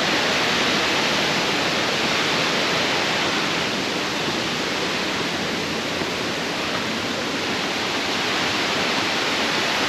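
Steady, continuous rush of a waterfall's falling water.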